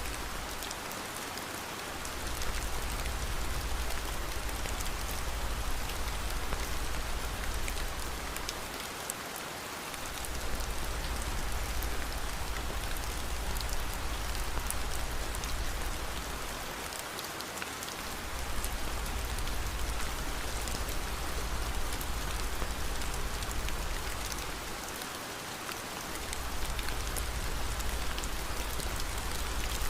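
Steady rain, an even hiss flecked with fine drop ticks. Underneath is a deep low rumble that fades out briefly about every eight seconds.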